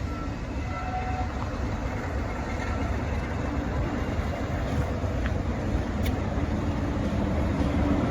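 Heritage diesel locomotive engine running with a heavy low rumble, getting steadily louder.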